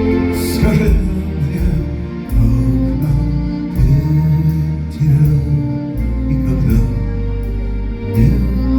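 Live band playing a slow song, with deep sustained bass notes that change every second or two under a fuller layer of held tones.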